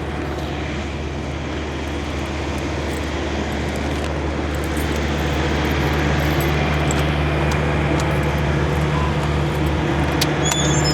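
Diesel semi-truck engine idling with a steady low drone that grows slightly louder, with a few sharp clicks near the end.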